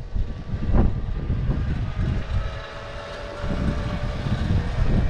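Motorcycle engine running, with heavy wind rumble on the microphone and a brief knock about a second in.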